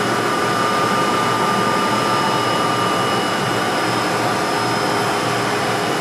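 Haas VF-2 vertical machining center running its spindle warm-up program at 2000 RPM: a steady whir with several steady whining tones on top.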